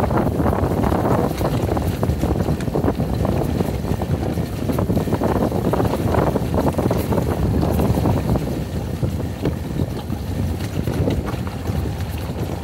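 Yamaha XG250 Tricker's single-cylinder engine running on a rough dirt trail, with wind on the microphone and frequent knocks and rattles from the bumps.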